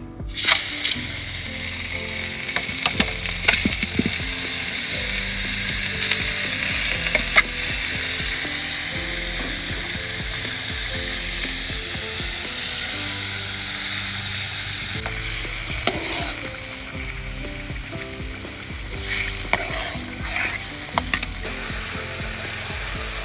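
Butter and beef sizzling as they fry in a large steel wok, with occasional sharp clinks of a metal ladle and tongs against the wok.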